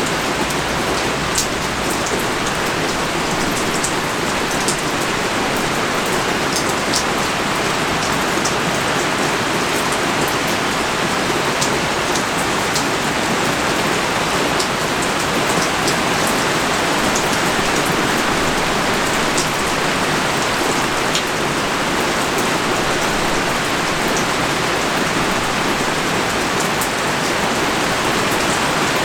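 Heavy rain pouring steadily, a dense even hiss with scattered sharp ticks of single drops striking a nearby surface.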